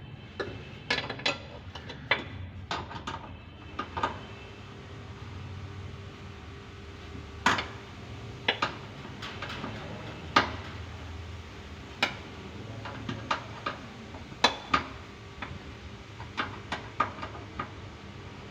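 Irregular sharp metallic clinks and knocks of metal tools or parts being handled, with a faint steady low hum underneath.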